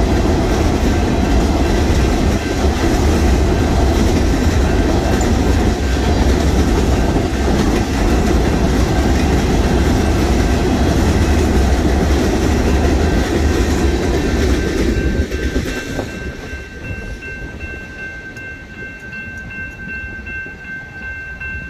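Freight train boxcars rolling past on steel rails with a steady wheel rumble and clatter. About three-quarters of the way through, the last car passes and the rumble drops away. A grade crossing's warning bell rings steadily throughout and is left sounding on its own at the end.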